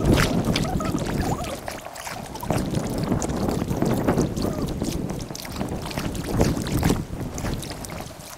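Kayak paddling on a river, sped up in time lapse: quick paddle splashes and water noise over wind buffeting the microphone.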